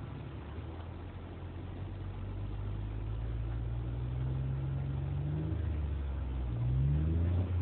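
Jeep Wrangler JK's engine accelerating, its pitch rising steadily for a few seconds, dropping back about five and a half seconds in, then rising again quickly near the end.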